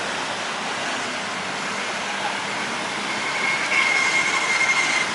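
Jet airliner engine noise, a steady rush with a high, steady whine that comes in about three seconds in as the sound grows louder.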